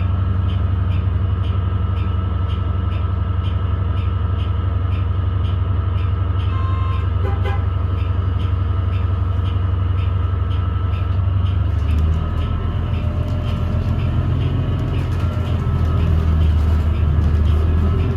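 Interior of a 2017 New Flyer XDE40 diesel-electric hybrid bus under way: a steady low drivetrain drone with a faint regular ticking a couple of times a second. About two-thirds of the way through, the low drone shifts in pitch. This odd noise is what the rider suspects comes from the transmission or possibly a loose screw or panel.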